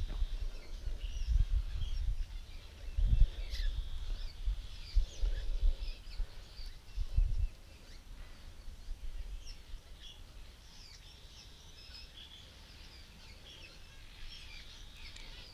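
Songbirds chirping and calling, with a low rumble on the microphone during the first half that dies away about seven and a half seconds in.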